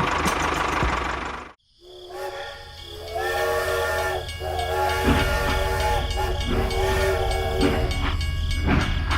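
A hiss that cuts off suddenly about a second and a half in, then a whistle or horn sounding a chord in several long toots. A low steady hum joins underneath from about five seconds in.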